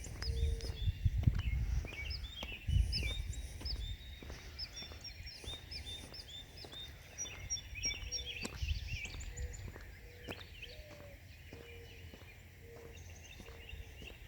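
Several birds chirping and singing at once, many quick high chirps and trills, with a low repeated note in short dashes near the start and again in the second half. A low rumble of wind on the microphone and handling is strongest in the first few seconds.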